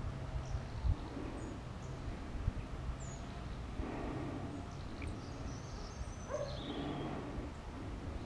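Common chaffinch giving faint, high chirps, with a short descending song phrase about two-thirds of the way through, over a steady low rumble.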